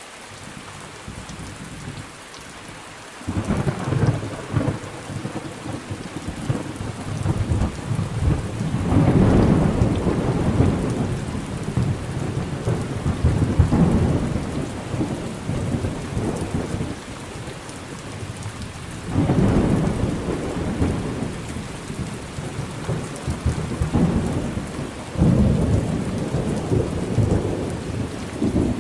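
Thunderstorm: steady rain falling, with rolling thunder that breaks in suddenly about three seconds in and returns in several more long rumbles.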